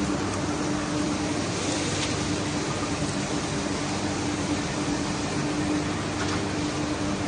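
Heavy rain pouring in strong wind, a steady hiss, with a constant low hum underneath.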